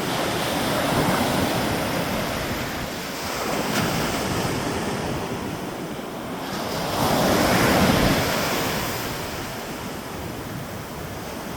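Ocean waves breaking and washing ashore, the surf swelling and ebbing in slow surges about every three to four seconds, the loudest near the middle-to-late part, with wind rumbling on the microphone.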